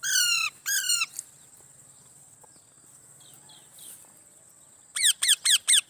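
A bird calling: two loud calls at the start, then a quick run of about seven short calls near the end, each falling in pitch.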